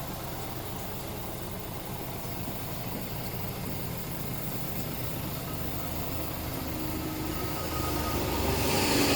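Scania R 450 truck's 13-litre straight-six diesel running at a steady idle, growing louder near the end with a brief hissing rise.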